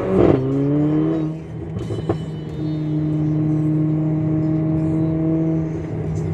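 Mercedes-AMG GLA45's turbocharged four-cylinder through a Fi Exhaust, revving hard and then lifting off just after the start, the note falling away over about a second. A sharp crack about two seconds in, then the engine settles into a steady drone.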